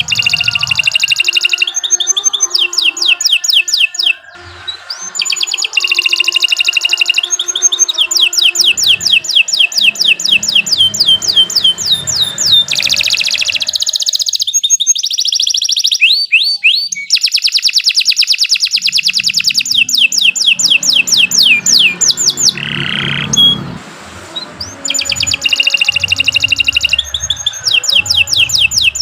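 Domestic canary singing a long, nonstop song of fast, high-pitched trills. Each trill is a run of rapid repeated sweeps, and the tempo and note shape change every few seconds, with brief pauses about four seconds in and near the end.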